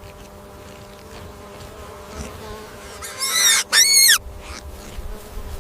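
A steady buzzing hum, with two loud, high-pitched animal calls about three seconds in, each rising and then falling.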